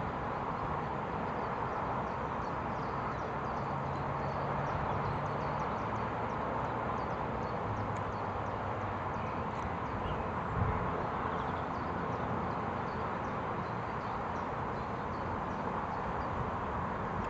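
Steady rushing outdoor background noise with faint high ticks scattered through it, and a single short knock about ten and a half seconds in.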